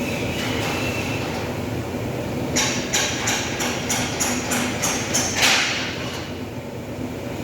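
A hammer tapping on sheet metal: about nine quick, evenly spaced strokes, roughly three a second, starting a couple of seconds in and ending in a brief noisy burst, over a steady workshop machine drone.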